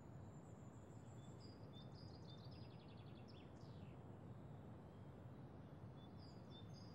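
Faint birdsong ambience: scattered high chirps and a quick trill near the middle, over a steady low hiss.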